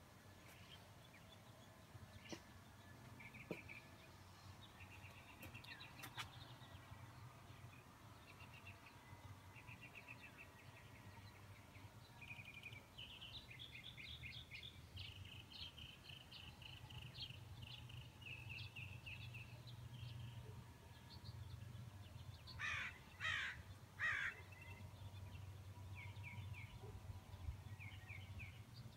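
Birds singing: small birds give repeated high chirping trills through most of the stretch. About two-thirds of the way through come three loud calls in quick succession. A faint steady low hum sits underneath.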